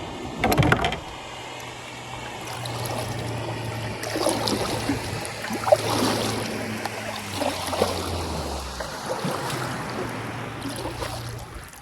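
Motorboat engine running steadily nearby, its pitch dropping as it slows and fading out near the end. Water splashes and laps around the kayak, with a loud splash or knock about half a second in.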